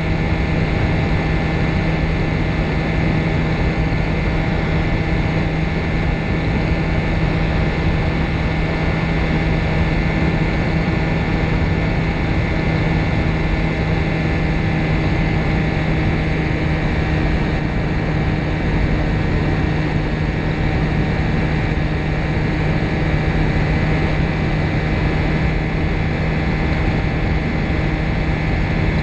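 Ultralight trike's engine and pusher propeller running steadily, a constant drone with a strong low hum and rough wind-like noise over the microphone.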